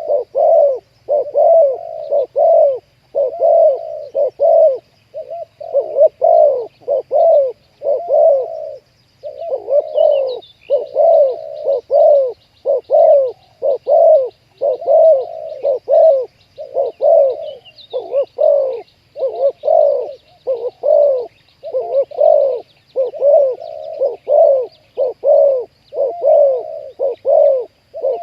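Spotted doves cooing, one coo phrase following another in a steady, unbroken run. Faint chirps of small birds sound above them.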